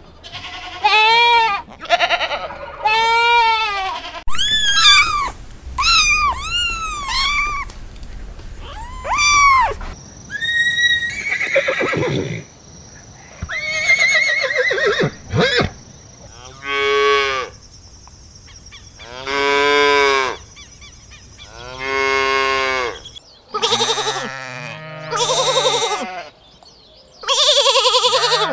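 Farm animals calling one after another: a series of separate pitched calls, short arching ones in the first half and longer held calls of about a second each later on.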